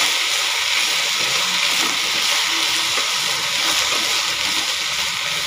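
Chopped banana flower sizzling in hot oil in a clay pot while being stirred with a wooden spatula: a steady hiss.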